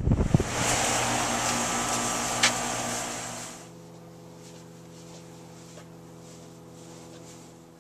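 Rheem air-conditioning condensing unit running: a loud rush of air from the condenser fan with a steady mechanical hum, and one short click midway. About three and a half seconds in it drops sharply to a much quieter, steady low hum from the running unit.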